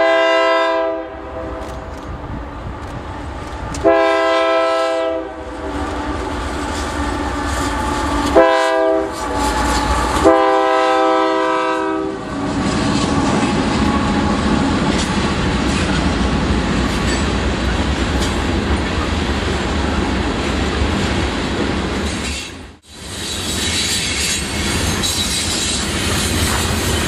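Diesel freight locomotive's multi-chime air horn sounding long, long, short, long, the standard grade-crossing signal. After that comes the steady rumble and clickety-clack of a grain train's covered hopper cars rolling past, with faint wheel squeal on the curve toward the end. The sound drops out briefly a few seconds before the end.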